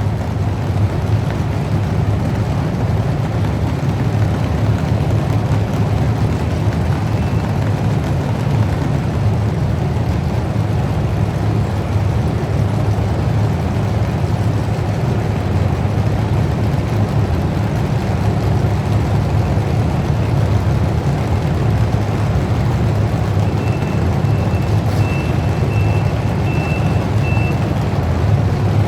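A truck engine running steadily, a loud, even low rumble. A faint, repeating high beep comes in near the end.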